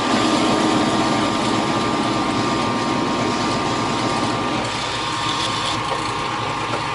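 Metal lathe running with a steady motor hum while a drill bit is fed into the workpiece to reach depth, with a rough cutting noise over the first few seconds that eases off.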